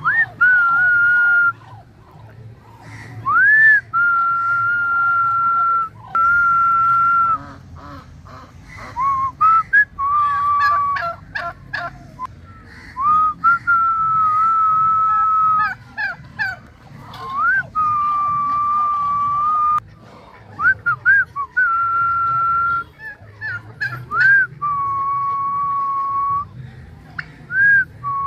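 A series of long, steady whistled notes, each held for one to two seconds and most starting with a quick upward slide, with short chirping glides and clicks between them.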